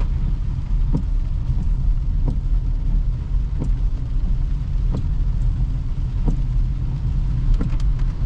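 Steady low road rumble from a Toyota Hyryder hybrid SUV being driven, with a short light knock repeating a little more than once a second.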